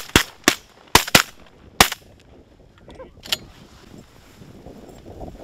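Several hunters' shotguns firing a rapid volley, about six shots in the first two seconds. One fainter shot follows about three seconds in.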